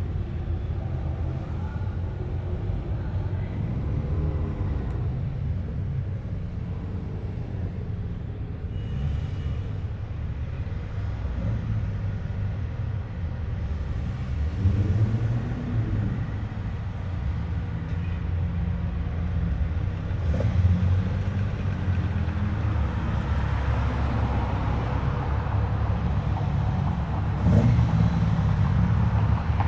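Japanese cars' engines running low and steady as they roll by. Another car grows louder in the last several seconds as it approaches.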